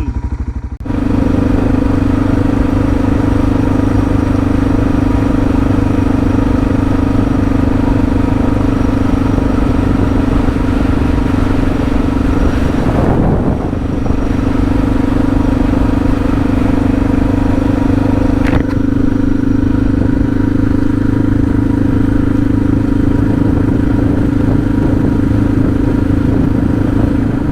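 Suzuki DR650's single-cylinder four-stroke engine running steadily under way as the bike is ridden. The engine note comes up about a second in and briefly dips about halfway through.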